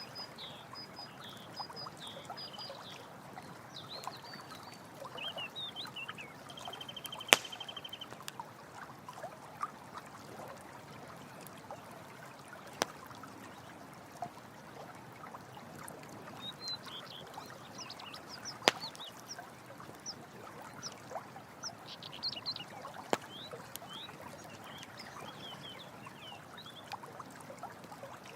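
Campfire crackling with occasional sharp pops over a steady rush of running water. Groups of high chirping calls come and go, with a short trill about seven seconds in.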